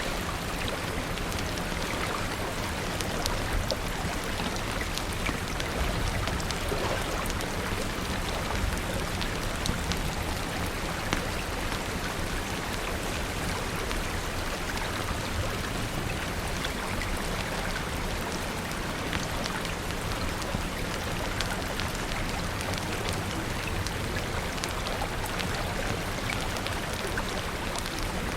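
Steady rain falling, with many small sharp ticks scattered through the even hiss.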